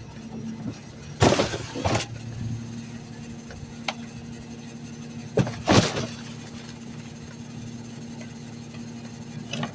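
Garbage truck engine running steadily, with two loud crashing bursts, each just under a second long: trash landing or being crushed in the rear hopper, about a second in and again around the middle.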